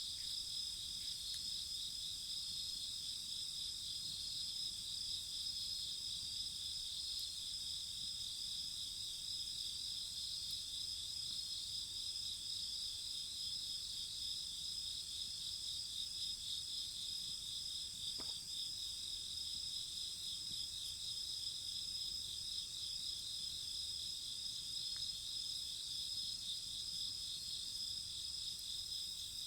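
Chorus of crickets and other night insects chirping steadily at several pitches at once, one of them in a fast pulsing trill, with a single faint tick about two-thirds of the way through.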